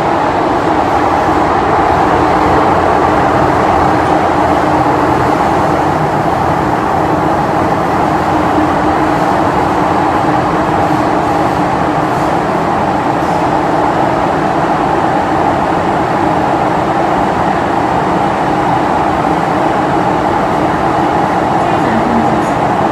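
MTR M-Train of the Disneyland Resort Line running along the track at speed: a steady rumble of wheels and running gear with a constant hum.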